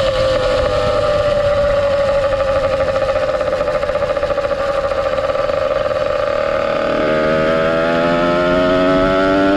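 Ported 100cc two-stroke motorized-bicycle engine with reed valve and a YZ85 expansion-chamber pipe, running under way. Its pitch sags slightly for several seconds, then from about seven seconds in the revs climb with a rising pitch.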